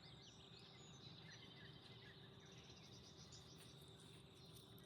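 Faint outdoor ambience: a steady high-pitched insect drone, typical of crickets, with a few faint bird chirps.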